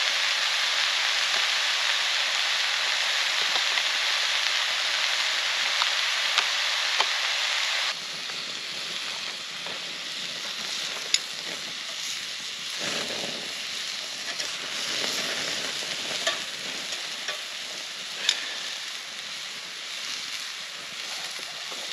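Mushrooms sizzling in salted butter in a pan over a campfire, a steady frying hiss. About eight seconds in it drops suddenly to a quieter sizzle with occasional sharp pops and clicks.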